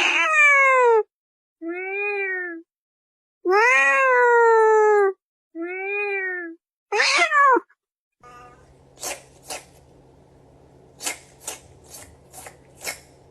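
Cat meowing five times in drawn-out calls that arch or fall in pitch, over about eight seconds. After them comes a faint steady hum with a run of sharp clicks.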